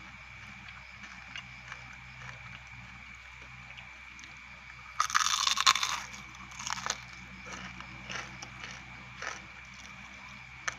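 Close-up eating sounds of crispy fried grasshoppers: a loud crackling crunch about five seconds in, then several shorter, softer crunches as they are chewed.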